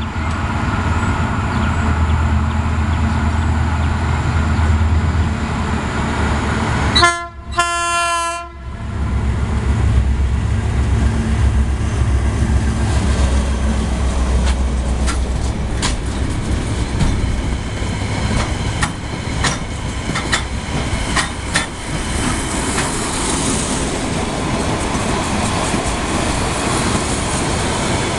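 EMD GT22CU diesel-electric locomotive with its 12-cylinder engine running with a deep rumble as it passes, sounding a short horn blast about seven seconds in. The empty freight wagons then roll by, their wheels clicking over the rail joints.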